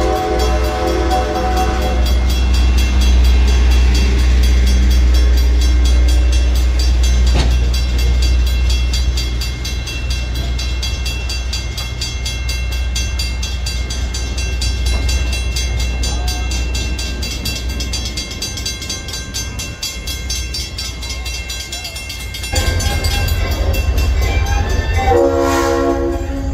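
A passenger train running with a steady low rumble. The locomotive's whistle is still sounding at the start and stops about two seconds in, then gives another short blast near the end.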